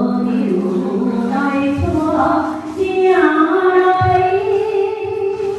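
A woman singing a slow, chant-like melody with long held notes that step from pitch to pitch, with a low thump about two seconds in and another about four seconds in.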